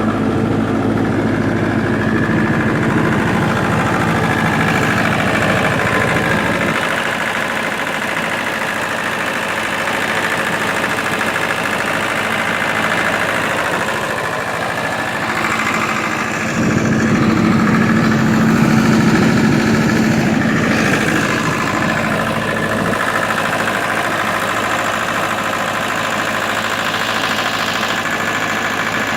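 Four-cylinder Onan diesel engine of a 1995 Libby MEP-803A 10 kW military generator, running steadily just after start-up. Its hum shifts a little in tone partway through, a bit louder about two-thirds of the way in.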